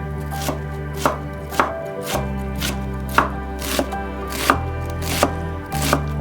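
Kitchen knife chopping on a cutting board in a steady rhythm, about two cuts a second, over background music.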